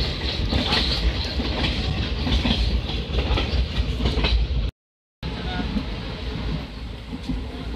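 Steady rumble and rattle of a passenger train in motion, heard from an open carriage window as the wheels run over the rails. The sound breaks off completely for about half a second near the middle, then carries on a little quieter.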